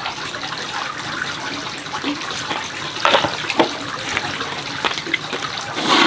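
Water running and splashing steadily, with a few sharper splashes about three seconds in and again near the end.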